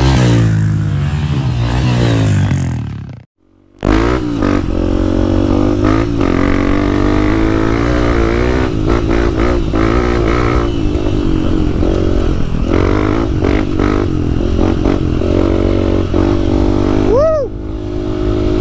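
Dirt bike engine running, its pitch falling as it slows over the first three seconds. After a brief break the engine runs on, the throttle rising and falling, with a few quick revs near the end.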